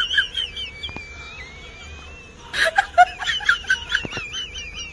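A bird singing in wavering whistled notes: a long, slightly wavering whistle about a second in, then a fast run of warbling chirps.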